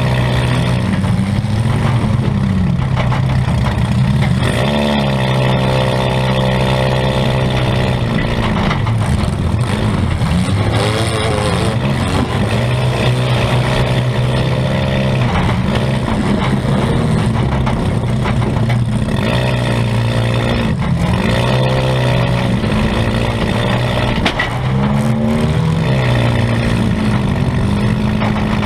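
Compact demolition-derby car's engine heard from inside its stripped cabin, revving up, holding high and dropping back again and again as the car is driven hard.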